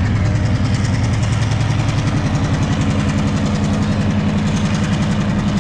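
A vehicle engine running steadily and close by, with an even, rapid firing pulse and no change in speed.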